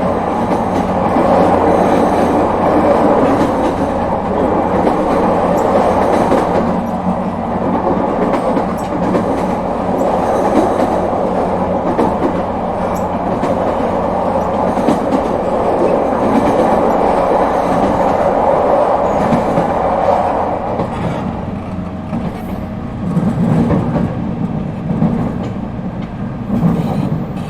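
Running noise heard inside an ET127 series electric multiple unit: a steady rumble of wheels on rails with rail-joint clatter, easing somewhat in level about three quarters of the way through.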